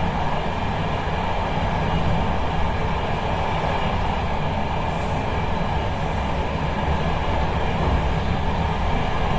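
Intercity train running along the line, heard from inside a passenger carriage: a steady deep rumble of wheels and running gear with an even rushing noise over it. A brief faint high hiss comes about five seconds in.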